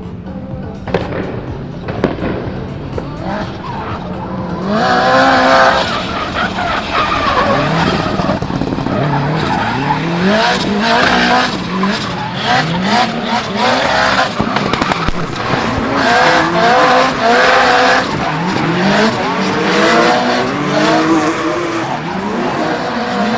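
Turbocharged Subaru EJ20 flat-four of a drift car revving hard, its pitch climbing and dropping again and again as it drifts, with tyre squeal. The sound is quieter at first and grows loud about five seconds in.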